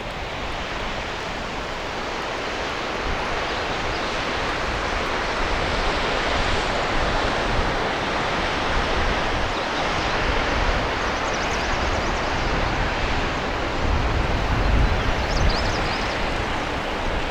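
Steady rushing outdoor noise that slowly grows louder, with low gusts of wind buffeting the microphone, strongest near the end.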